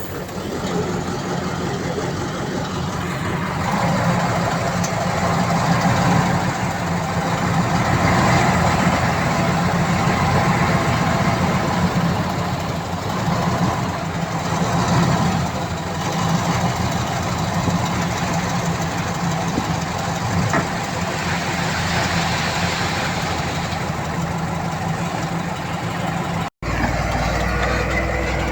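Heavy diesel engine of earthmoving machinery running under varying load, swelling and easing every few seconds. It cuts out for an instant near the end and comes back with a different tone.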